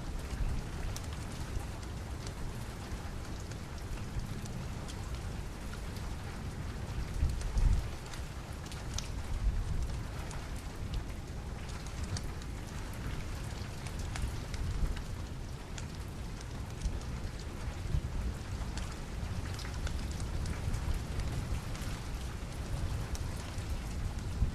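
Steady rain falling, with a low rumble underneath and scattered sharp ticks throughout; the rumble swells briefly about seven seconds in.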